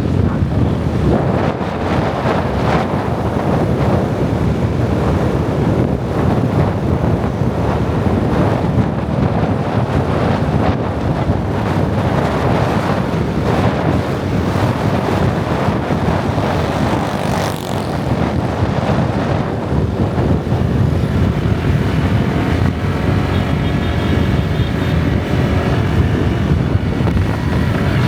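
Wind buffeting the microphone on a moving motorbike, with engine and road noise underneath. A faint pitched tone joins in near the end.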